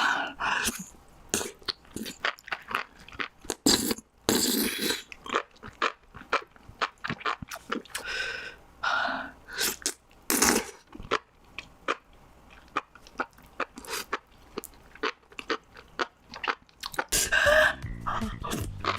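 Close-miked eating of spicy enoki mushrooms: irregular wet chewing and mouth clicks, with several longer, louder slurps.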